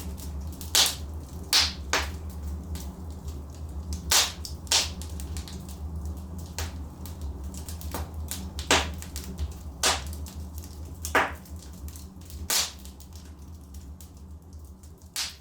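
Wood fire burning in a fireplace: logs crackling with sharp, irregular pops, a dozen or so, over a steady low rumble.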